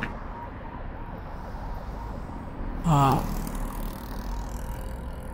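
A man's short wordless vocal sound, a brief falling 'mm' or groan, about three seconds in, over a steady low room hum.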